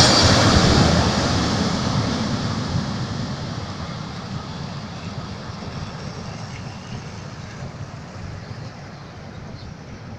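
Airbus A340-300's four CFM56 turbofan engines at takeoff power: a steady jet roar that fades away as the airliner climbs out, down to a faint low rumble by the end.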